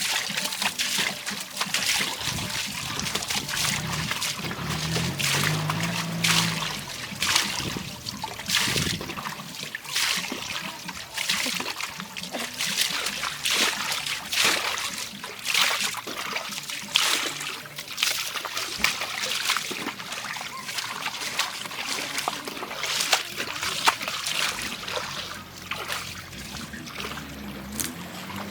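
Water splashing and trickling in quick, irregular splashes.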